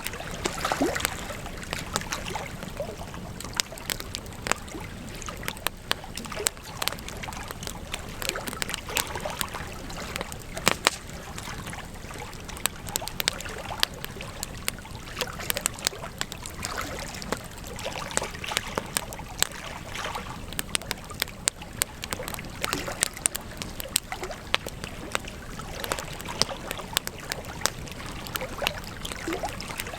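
Campfire burning with steady crackling and many irregular sharp pops from the wood.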